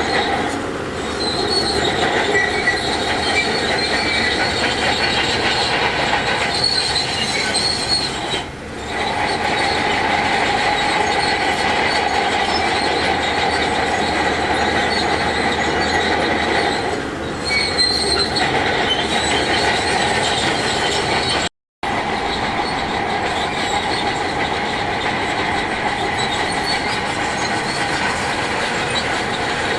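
Heavy earthmoving machinery working: a steady machine sound with sustained high-pitched tones, typical of a crawler bulldozer's or loader's running gear squealing. It dips briefly twice and cuts out completely for a moment about two-thirds of the way through.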